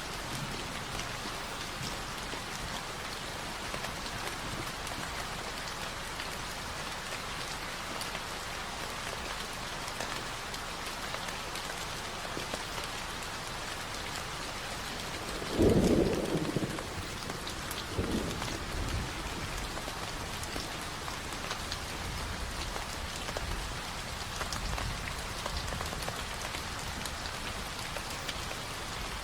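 Recorded rain falling steadily, with a low thunder rumble about halfway through and a fainter one a couple of seconds later.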